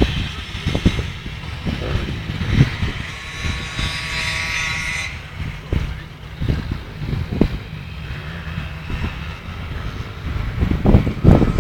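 Small motocross bike engine running with a thin whine that grows stronger from about two and a half seconds in and cuts off suddenly at about five seconds. Low rumble and short thumps run under it.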